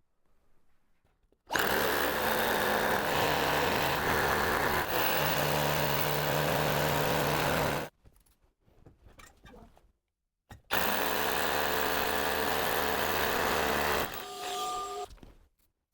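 A handheld power tool running in two steady bursts, one of about six seconds and a shorter one of about three seconds, with a pause between them.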